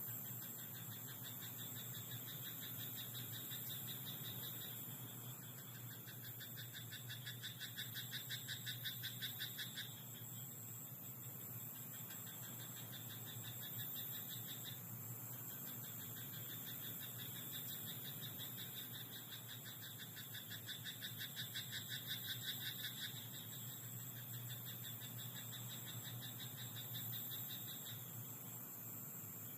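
Frogs croaking in a rice paddy in a chorus of fast, rattling pulsed calls that come in bouts of a few seconds with short breaks, two of them louder than the rest.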